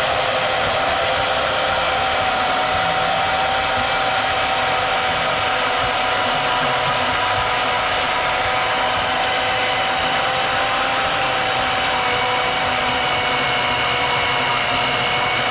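Bandsaw running steadily with a constant motor whine, cutting through a motorcycle frame tube.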